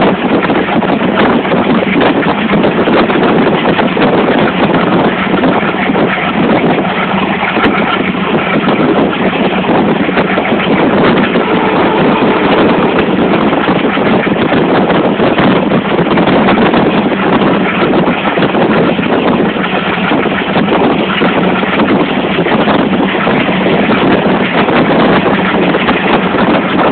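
Steady running noise of a moving train heard from on board: a continuous rumble and rush of wheels on the track and passing air, with no pauses.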